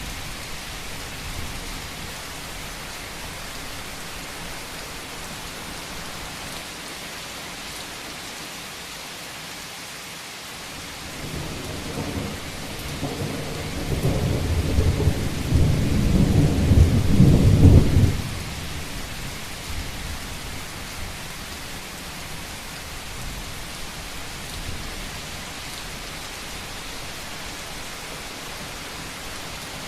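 Steady rain drumming on a roof, with a roll of thunder that builds from about eleven seconds in, peaks a few seconds later and ends abruptly around eighteen seconds in.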